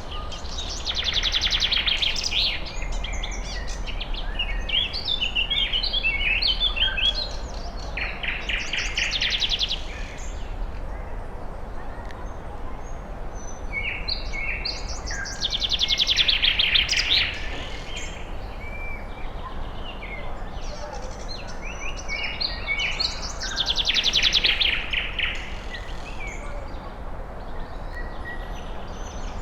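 Several forest birds singing together; one bird repeats a fast trilled song about every eight seconds, with other birds' chirps and short phrases between.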